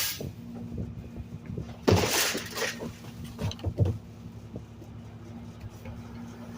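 Trash truck engine running steadily with a constant low hum. About two seconds in comes a short burst of hiss, followed by a few knocks.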